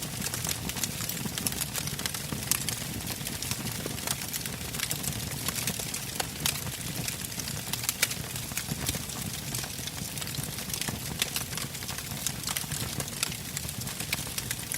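Wood fire burning, logs crackling with frequent irregular sharp pops over a steady low rush of flame, a few pops louder than the rest.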